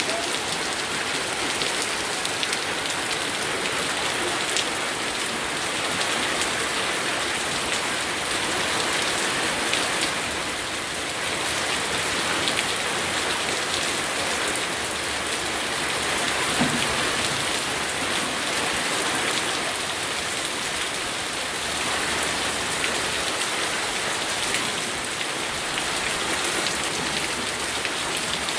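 Steady heavy rain falling and pattering on surfaces, an even hiss with fine drop ticks that swells and eases slightly every few seconds.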